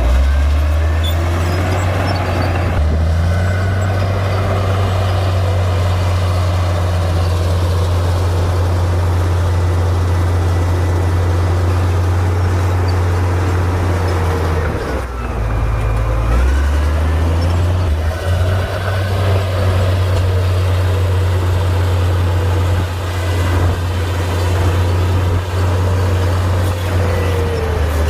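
Komatsu D58P bulldozer's diesel engine running hard and steady. Its note shifts about three seconds in, then drops and climbs back up around the middle as the throttle or load changes.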